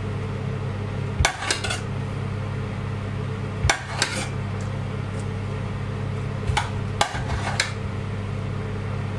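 Metal utensil clinking and knocking against a roasting tray while the chicken is basted with its pan juices, about seven separate knocks over a steady low hum.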